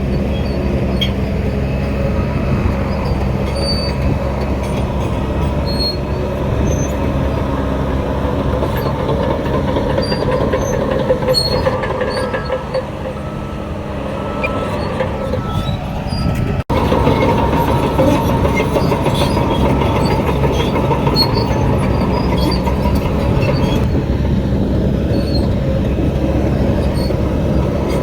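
Bulldozer's diesel engine running under load with the steel tracks clattering and squealing. The sound eases off briefly past the middle, then cuts abruptly and comes back louder.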